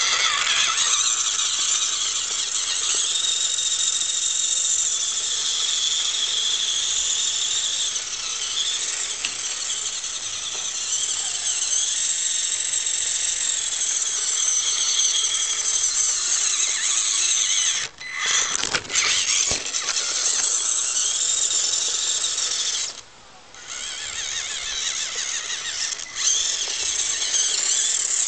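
Electric motor and gearbox of a 1/18-scale RC crawler truck whining high as it drives. The whine cuts out briefly twice, with a few clicks, about two-thirds of the way through.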